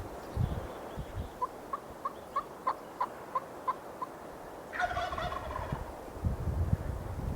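A run of about nine short, evenly spaced turkey yelps, about three a second, then about a second later a Merriam's turkey gobbler answers with one rattling gobble.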